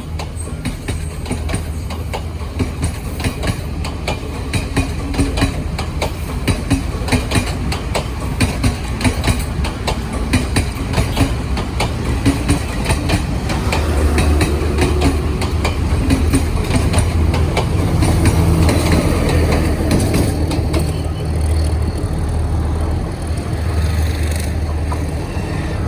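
Train running on rails: rapid, uneven clicking of wheels over the rail joints over a steady low drone, which grows louder about halfway through.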